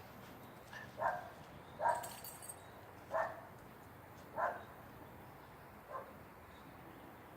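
A dog barking in alarm at a delivery truck, giving single barks about a second apart, six in all, the last one fainter.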